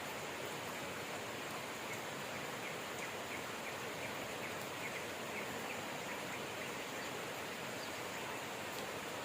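Steady rain, an even hiss, with faint bird chirps behind it, including a quick run of short chirps a few seconds in.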